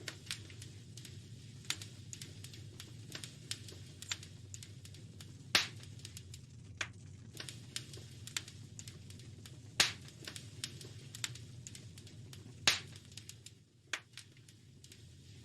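Wood fire crackling in a fireplace: frequent small snaps over a steady low rumble, with three louder pops standing out, about five and a half, ten and thirteen seconds in.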